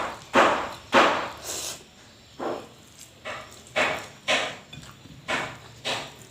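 Repeated hammer blows from builders at work, a sharp strike about every half second with short pauses in the run.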